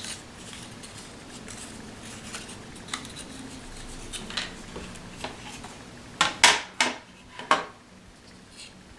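Cardstock being bent and creased along its score lines by hand: scattered crackles and clicks of stiff paper folding, with a louder run of sharp creasing crackles about six to seven and a half seconds in.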